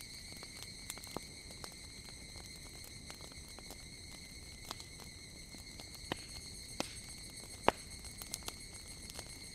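Higurashi (evening cicada) calling, a steady high-pitched shrill, over a crackling wood fire that gives scattered sharp pops, the loudest a little under two seconds before the end.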